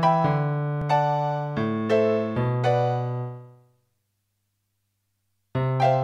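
Yamaha PSR-175 home keyboard playing a piano-like preset voice. A short phrase of notes over a held bass note dies away, then after about two seconds of silence a new phrase starts near the end.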